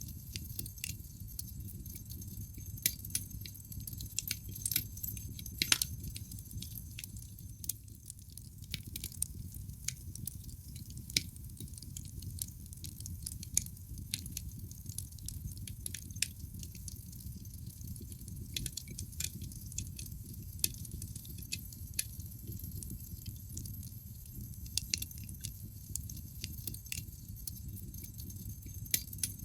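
Wood logs burning in a fireplace: irregular sharp crackles and pops, a few louder snaps, over a low steady rumble of the flames.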